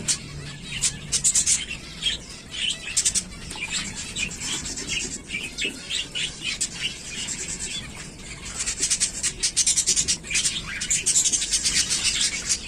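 Zebra finches chirping and calling: a busy run of short high chirps mixed with quick, scratchy, buzzy notes, growing denser near the end.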